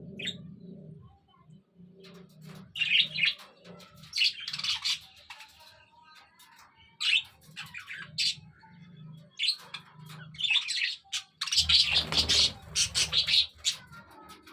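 Budgerigars chirping and chattering in short bursts, with the busiest and loudest run of calls about twelve seconds in.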